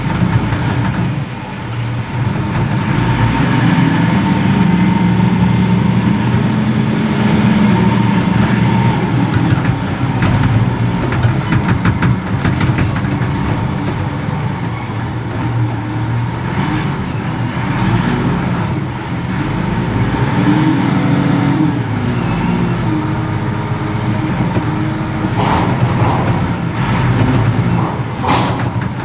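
Reach stacker's diesel engine running hard, its pitch rising and falling as the machine works, with a few sharp knocks near the end.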